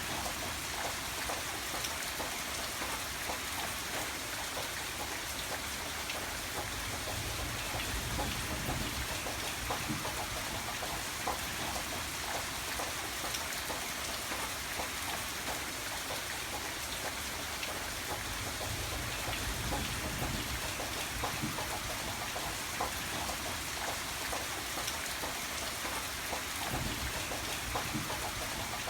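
Steady rain falling: a dense even hiss with individual drops clicking on a surface, and a low rumble that swells a few times.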